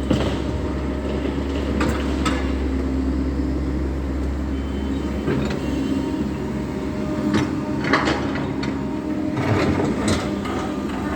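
SANY SY140 excavator's diesel engine running steadily, with several knocks and scrapes of the bucket and material as it works.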